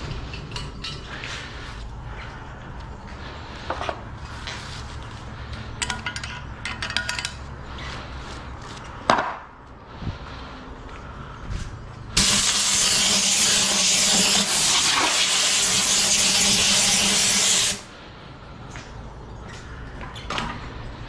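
Workshop tool sounds: a steady low hum with scattered clinks and knocks, one sharp knock, then a loud hissing rush lasting about five seconds that cuts off abruptly.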